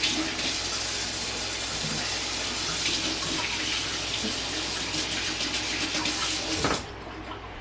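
Kitchen tap running water into the sink in a steady rush, shut off near the end.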